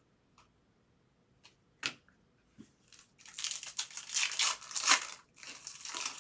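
A sharp click, then a trading-card pack wrapper being torn open and crinkled from about three seconds in.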